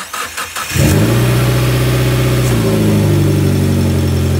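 Mitsubishi Lancer Evolution X's turbocharged 2.0-litre four-cylinder cranking briefly on the starter, catching under a second in, then running at a steady fast idle. This is its first start after a new intake, blow-off valve and upper intercooler pipe were fitted.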